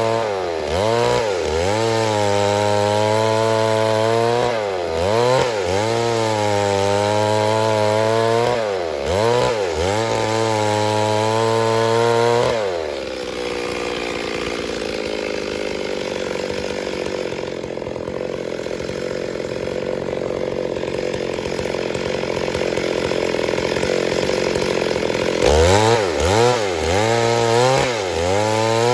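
Stihl MS 382 two-stroke chainsaw running at high revs, its engine speed dipping sharply again and again, as it does when the chain bites into wood. About 13 s in, it settles into a steadier, lower, slightly quieter running for some twelve seconds. Near the end the revving with repeated dips returns.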